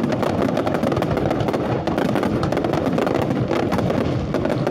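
Fireworks crackling: a dense, unbroken spatter of rapid small pops and snaps.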